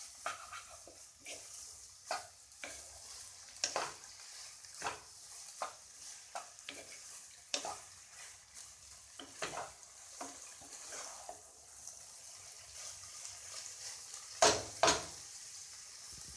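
Chowmein noodles and vegetables being stirred and tossed in a hot pan: a steady sizzle with irregular scrapes and knocks of a utensil against the pan, the two loudest close together near the end.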